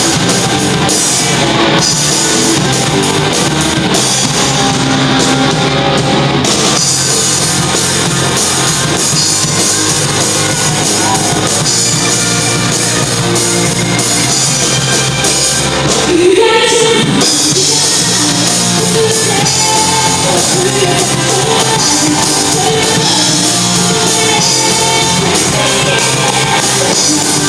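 Live rock band playing loudly with sung vocals, amplified through a hall's sound system; about sixteen seconds in, a voice slides up and then back down.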